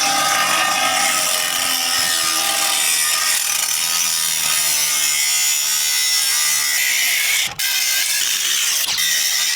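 Angle grinder cutting through the metal bottom bar of an ATV roll cage: a loud, steady, hissing cutting noise that drops out for a moment about seven and a half seconds in.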